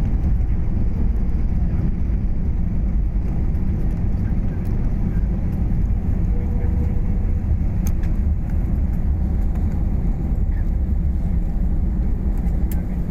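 Steady low rumble of a passenger plane during landing, heard from the cabin, with a couple of faint ticks.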